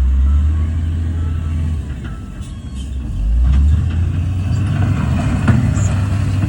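Heavy diesel earthmoving machinery running under load, a low engine drone that eases off about two seconds in and builds up again a second later, with a few faint clanks.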